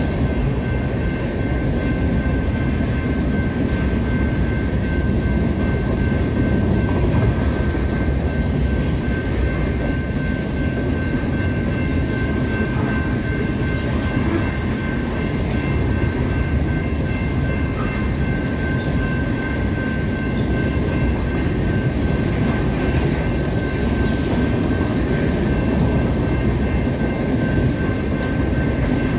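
Freight train of covered hopper cars rolling steadily past: a continuous rumble and clatter of steel wheels on rail, with a thin steady high ringing tone over it.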